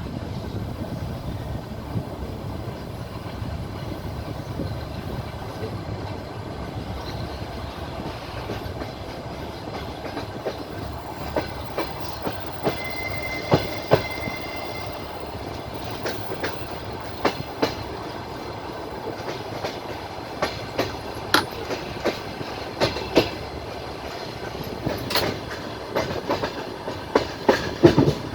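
Passenger train carriage running along the track, heard from inside the car: a steady rumble of wheels on rail with clickety-clack clicks as the wheels cross rail joints, the clicks coming more often in the second half. A brief high whine sounds about halfway through.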